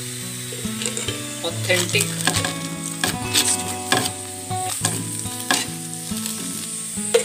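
Ghee sizzling under a puran poli (stuffed flatbread) in a frying pan while a metal spoon spreads it over the top, with many small clicks and scrapes of the spoon on the bread and the pan.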